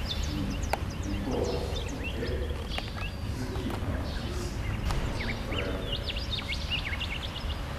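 Small birds chirping, with many short quick chirps that come more thickly near the end, over a steady low rumble.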